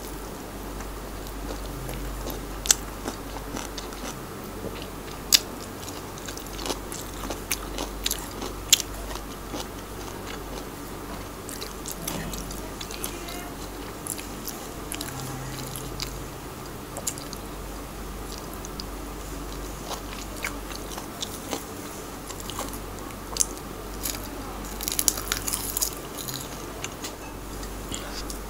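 Close-miked eating: a person chewing and biting crunchy kimchi, with scattered sharp crunches and a denser run of them near the end.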